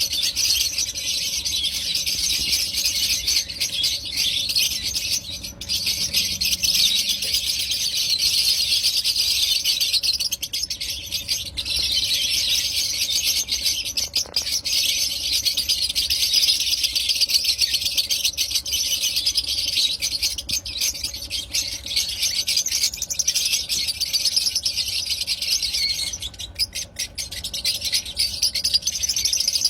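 Lovebirds chattering nonstop: a dense stream of shrill, rapid squeaks and chirps, easing off briefly near the end.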